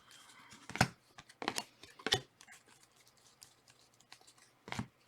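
A few short, scattered clicks and rustles, the loudest about a second in and near the end: trading cards being handled and sorted.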